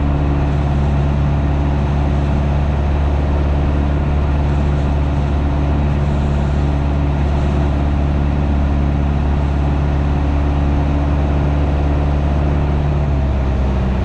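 Piper PA28's piston engine droning steadily in the cockpit in flight, its pitch stepping up slightly near the end.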